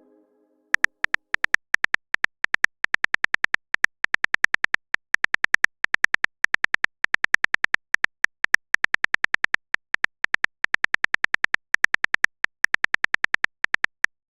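Simulated phone keyboard typing clicks from a texting-story app: short sharp ticks in quick, uneven runs of several a second, with brief pauses between runs.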